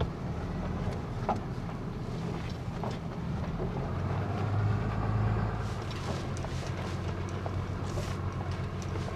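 Truck engine running at low speed, with small clicks and knocks over it; the engine gets louder about four to five seconds in, then settles back.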